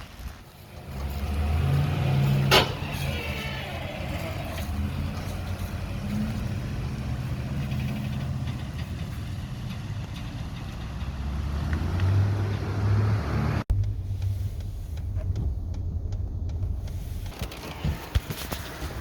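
A truck driving on the road, its engine and road noise a steady low rumble, with a sharp click about two and a half seconds in. The sound breaks off abruptly about fourteen seconds in, then the rumble carries on.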